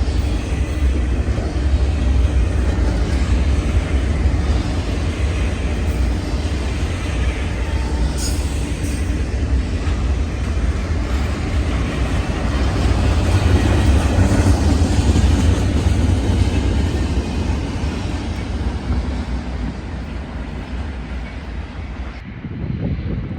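Train passing close by: a steady deep rumble of wheels on rail, swelling to its loudest about halfway through and easing off after.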